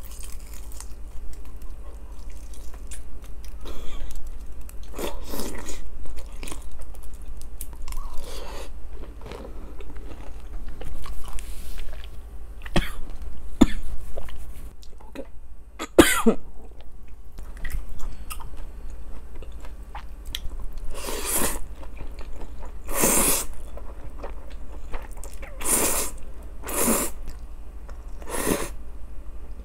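Close-miked chewing and biting of grilled beef small and large intestines (sogopchang and daechang), a run of short mouth-noise sounds with several louder chews in the last third.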